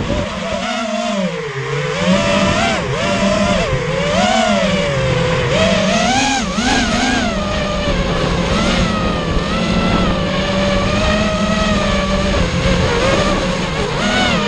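FPV racing quadcopter's brushless motors whining, the pitch rising and falling over and over with the throttle, then holding steadier for the last several seconds.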